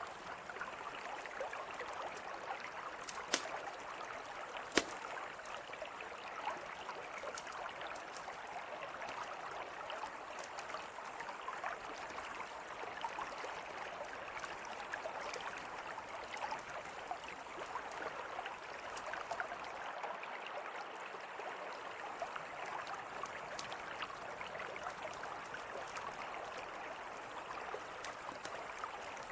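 Mountain river flowing steadily, with a campfire crackling in small clicks over it and two sharper pops a few seconds in.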